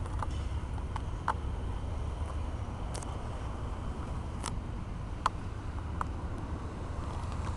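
Low, steady rumble of CSX diesel helper locomotives on a train, with a few short sharp clicks scattered through it.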